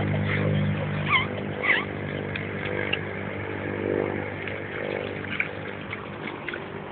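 An engine runs steadily, its hum slowly fading. Two short high calls come about a second in.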